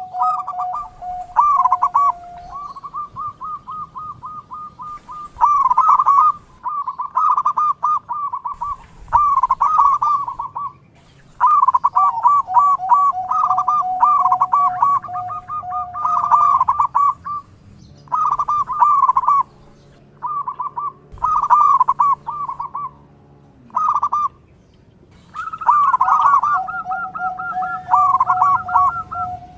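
Zebra doves (perkutut) cooing: repeated phrases of rapid staccato coos around 1 kHz with short pauses between them. At times the songs of more than one bird overlap.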